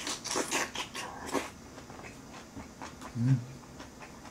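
Close-miked chewing of a mouthful of kimchi: a quick run of wet chewing and mouth noises in the first second and a half, then a short low hum about three seconds in.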